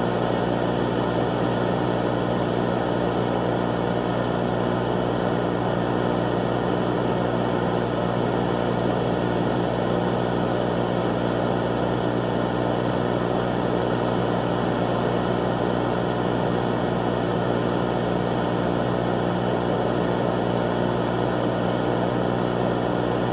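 A steady, unchanging drone: a low hum with a rushing hiss over it.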